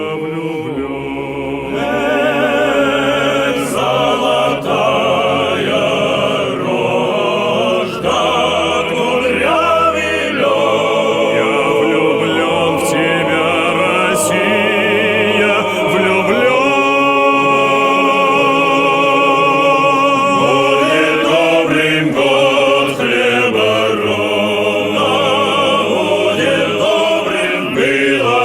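Music: a choir singing sustained, full-voiced lines with strong vibrato.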